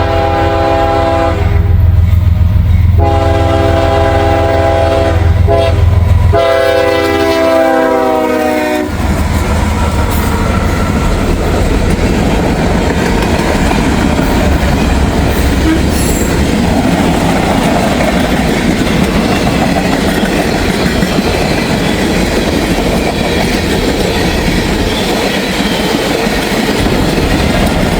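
Diesel freight train sounding its multi-note air horn in several blasts for the grade crossing, the last one long, over a low locomotive engine rumble. From about nine seconds in, the horn stops and the train rolls past with a steady rumble and the clickety-clack of freight car wheels on the rail joints.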